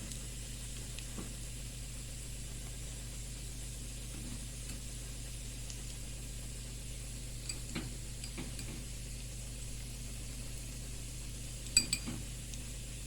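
Food frying in a pan with a steady sizzle, with a few light clicks of a utensil against the pan and one sharper clink near the end.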